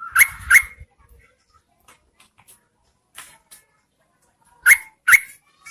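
Female yellow-vented bulbul calling: two pairs of sharp, loud, rising notes, one pair at the start and one near the end, with a few fainter calls between.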